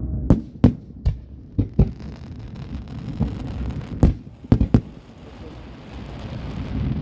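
Fireworks going off: a run of sharp bangs, several in the first two seconds and a quick cluster around the middle, over a steady low rumble.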